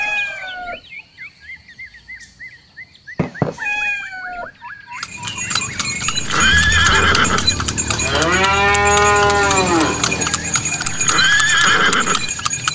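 Dubbed animal sound effects: a cat meowing in short, falling calls for the first few seconds. From about five seconds in, a horse neighs over a steady clatter of hoofbeats, with a long whinny in the middle.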